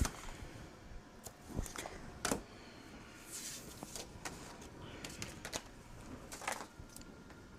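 Scattered light clicks and taps, with a couple of short rustles, from hands handling paper and crafting tools on a work table.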